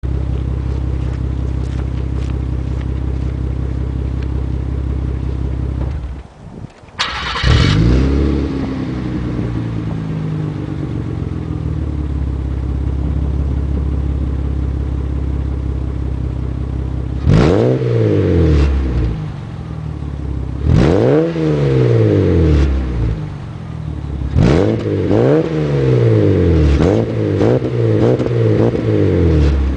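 Exhaust of a 1994 Ford Probe GT's 2.5-litre DOHC V6, running through stock manifolds, a test pipe, a resonator and a straight-through muffler. It idles steadily, drops out briefly about six seconds in, then fires and flares up before settling back to idle. From about seventeen seconds in it is revved in a series of throttle blips, each rising and falling in pitch, coming quicker toward the end.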